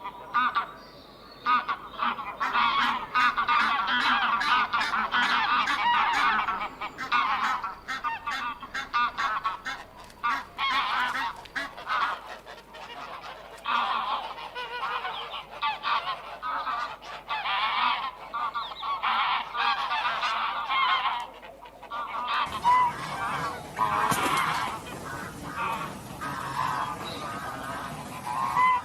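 A flock of domestic geese honking, with many overlapping calls throughout. About two-thirds of the way through, the sound changes to a different recording of honking geese with a low background rumble.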